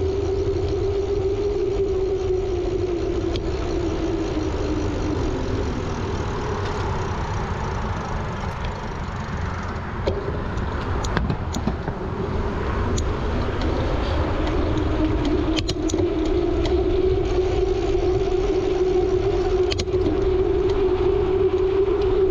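Road traffic running steadily under a low wind rumble on the microphone, heard while cycling. Its hum dips and slides lower for a few seconds, then a handful of sharp clicks and rattles come in the middle.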